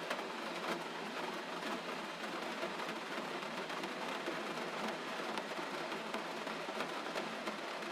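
Steady gentle rain, an even hiss dotted with many small sharp ticks of drops.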